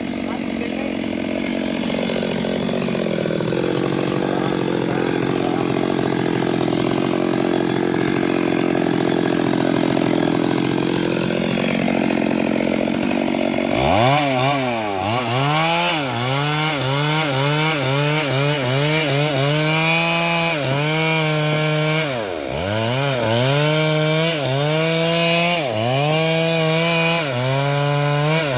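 Stihl MS382 two-stroke chainsaw cutting into a large sengon trunk, running steadily under load for the first half. About halfway through its pitch starts to sag and recover again and again, about once a second, as the chain bogs in the wood and picks up speed.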